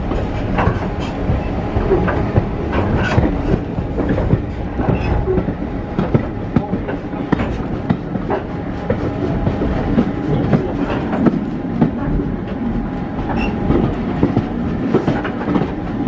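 British Railways Mk1 passenger coach running along the line, heard from inside: a steady low rumble of wheels on rail with irregular clicks and knocks as the wheels pass over rail joints.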